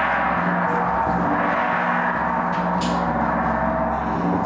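A large gong ringing on after being struck, holding almost steady and fading only slightly.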